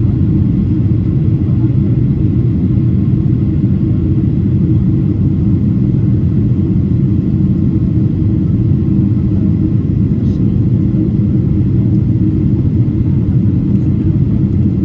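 Steady low rumble of a Boeing 777-300ER in flight, its two GE90 engines running.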